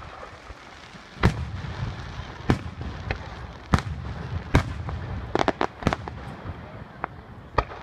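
Aerial fireworks shells bursting overhead: sharp bangs about a second apart, with a quick cluster of five or so pops just past the middle, over a steady low rumble.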